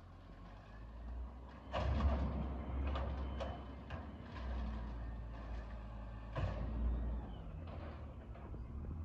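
Garbage truck engine running low and steady, with several loud metallic bangs and clanks about two seconds in and again around six and a half seconds, the sound of bins and the collection mechanism striking metal.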